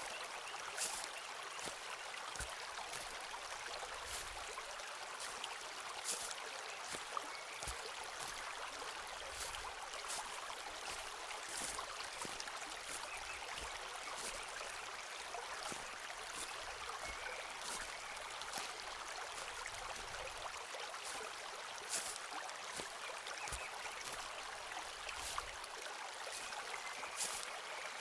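Footsteps walking along a forest path, short crisp footfalls about once a second, over the steady rush of a nearby stream.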